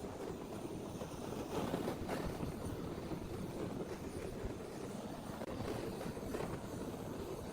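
Steady rumbling mechanical noise with faint irregular clicks, like a machine running continuously.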